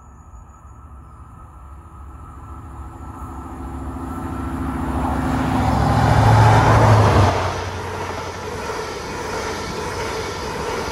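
CrossCountry High Speed Train passing through at speed: the leading Class 43 power car's diesel engine grows steadily louder on approach and is loudest about six to seven seconds in as it goes by, then the coaches' wheels rumble and hiss on the rails.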